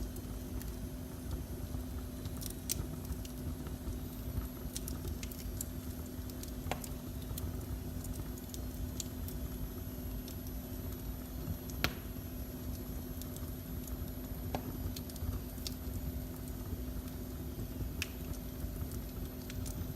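Wood fire burning in a fireplace: a steady low rumble and faint hum with scattered sharp crackles and pops, one louder pop about midway.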